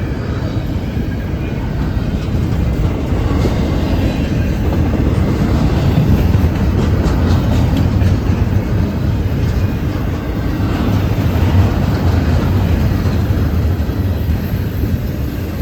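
CSX freight train rolling past close by: a steady, loud rumble of steel wheels on the rails with faint repeated clicks at the rail joints. It swells a little toward the middle.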